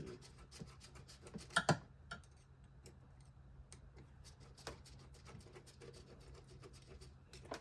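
Scattered light clicks and scrapes of hand tools and plastic or metal engine parts being handled, with a sharper double clack about a second and a half in, over a faint steady low hum.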